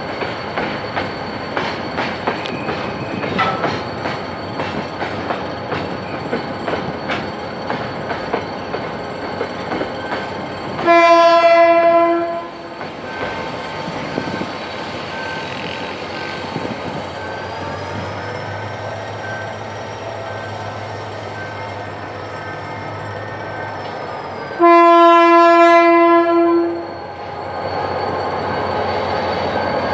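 Empty coal hopper wagons rolling past with a dense clatter of wheels over rail joints, then two long blasts of a diesel locomotive horn, one about eleven seconds in and one about twenty-five seconds in. Between the blasts a locomotive's diesel engine drones louder, and near the end the engine sound swells as the locomotive pulls away.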